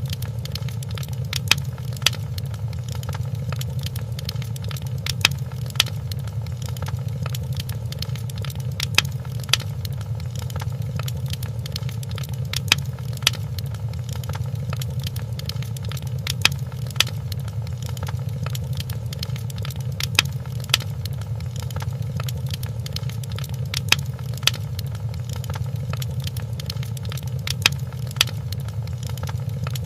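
Wood fire crackling in a fireplace: a steady low rumble of the flames with sharp pops every few seconds, often two close together.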